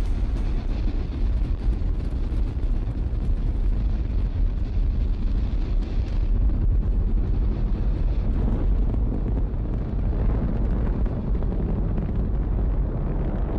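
Space shuttle launch: a deep, steady rocket-engine rumble and crackle with no clear pitch.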